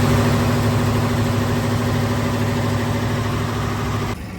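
A river slow boat's engine running steadily at an even pitch, then cutting off abruptly shortly before the end.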